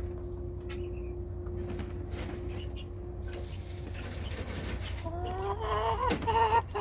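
A chicken clucking and calling: a run of short pitched calls starts about five seconds in, over a steady low hum.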